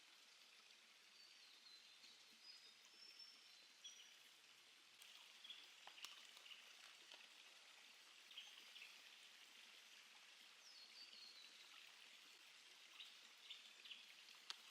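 Near silence: faint bush ambience with soft hiss, a few faint high-pitched bird calls and occasional light ticks.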